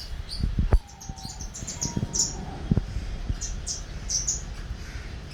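Small birds chirping in short, high, repeated calls throughout, with a couple of sharp knocks about half a second in and another near the middle.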